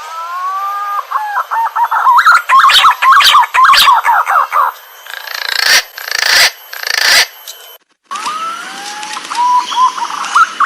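Green pigeon (punai) song: long wavering whistles that break into a quick run of rising and falling whistled notes, broken by a few loud crackles. After a brief gap near the end, a second phrase starts. This is a call recording of the kind played to lure punai.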